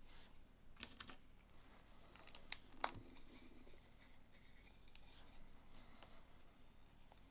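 Faint clicks and light rustling of small plastic LEGO pieces being handled and pressed together, with one sharper click about three seconds in.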